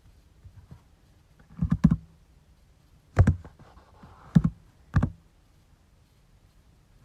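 Scattered keystrokes on a computer keyboard: a quick run of three or four about one and a half seconds in, then single strokes spaced out over the next few seconds.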